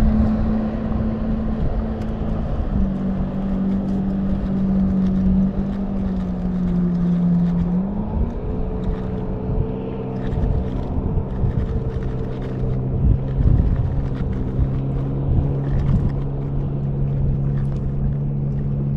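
Engine of a motorized watercraft running steadily, its pitch stepping down about three seconds in and changing again near eight seconds, over a low rumble of wind and water.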